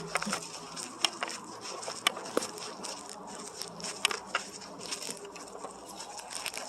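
Footsteps crunching on twigs and leaf litter, sharp cracks about once a second, over a steady high insect buzz.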